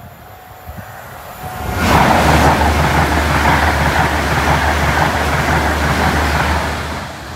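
LNER Class 801 Azuma electric train passing over a level crossing at speed: a loud rush of wheel and air noise over a steady low rumble with a fast regular beat. It swells in about a second in, holds for about five seconds, and drops away near the end as the train clears.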